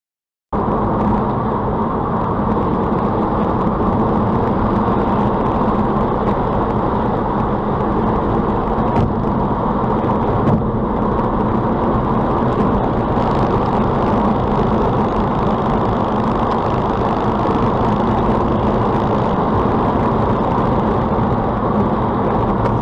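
Steady road and engine noise of a car being driven, as recorded by a dashcam, starting abruptly about half a second in.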